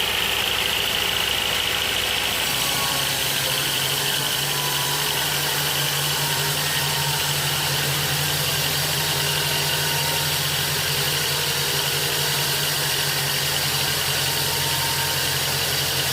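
An engine running steadily at a constant speed; its low tone steps up slightly about three seconds in.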